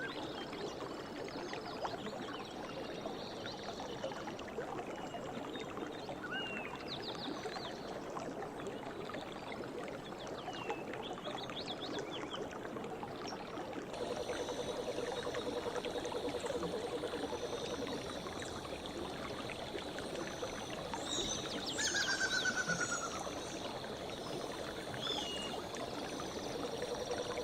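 A stream running steadily, with songbirds chirping over it in short calls. About halfway through, the sound shifts and a low pulsing trill joins, and a louder falling bird call comes near the end.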